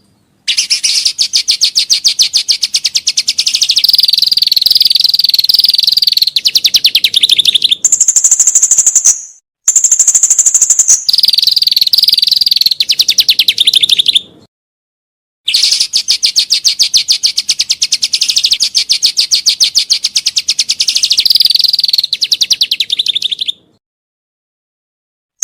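Songbird song used as training material for caged songbirds: fast, loud trills of rapidly repeated high chirps, with a higher, clear ringing phrase between them. The song stops abruptly several times, with a long silence near the end.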